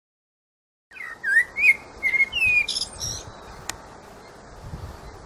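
Birds chirping: short rising and falling whistles with quicker, higher chirps over a steady hiss, starting about a second in out of dead silence.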